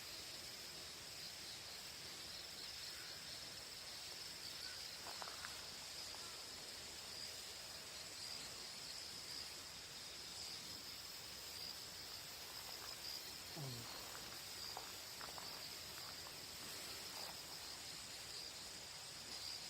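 Crickets chirring in a steady, high, faintly pulsing trill, with a fainter, higher trill above it.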